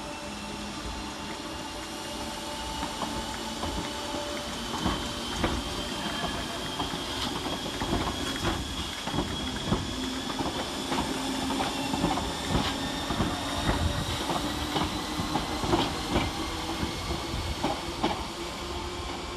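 Merseyrail Class 508 electric multiple unit pulling out and gathering speed: the traction motors give a whine that rises slowly in pitch, over a rumble, with wheels clicking and knocking over rail joints and pointwork, the clicks coming faster and louder as it goes.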